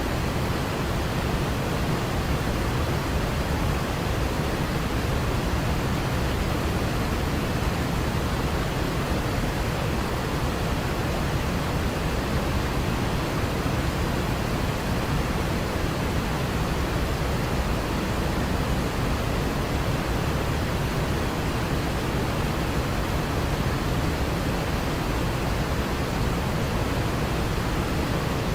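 Waterfall rushing in a steady, even roar with no breaks or changes.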